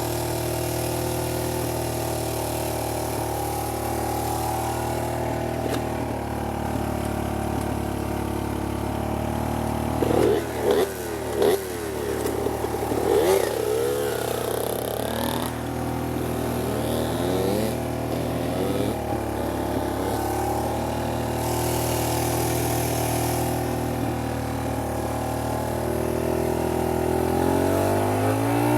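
Small dirt bike engine idling steadily, blipped with a few quick throttle revs about ten to fourteen seconds in, then revving up and rising in pitch near the end.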